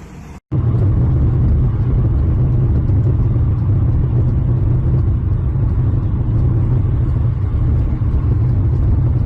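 Loud, steady rumble of a vehicle, starting suddenly about half a second in, with no clear engine pitch.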